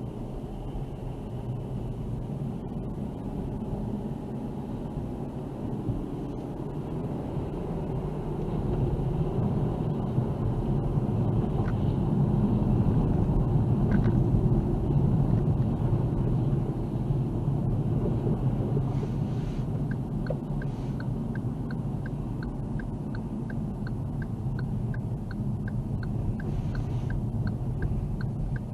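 Car driving, heard as a steady low road and engine rumble that grows louder through the middle. In the last third a turn signal ticks about twice a second.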